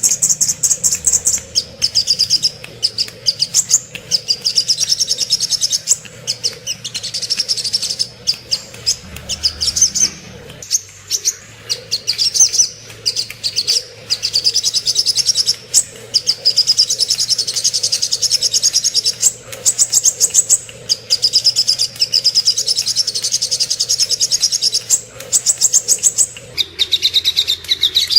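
Recorded song of the sogok ontong bird: fast, high-pitched trills of rapidly repeated chirps in runs of a few seconds with short breaks, the last run about two seconds from the end pitched lower.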